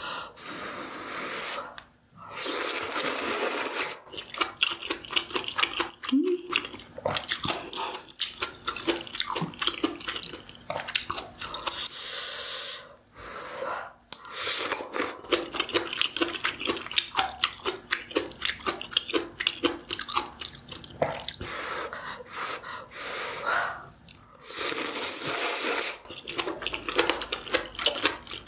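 A person eating close to the microphone: wet chewing with many quick mouth clicks, and three long slurps about two, twelve and twenty-five seconds in.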